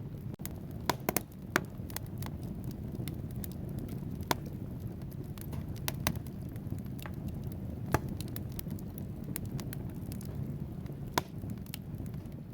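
Wood fire burning in a fireplace: a steady low roar of flames with scattered sharp crackles and pops from the burning logs, a handful of them louder than the rest.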